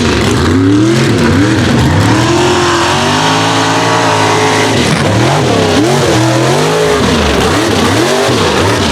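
Mega truck engine revving hard, its pitch rising and falling again and again as the throttle is worked.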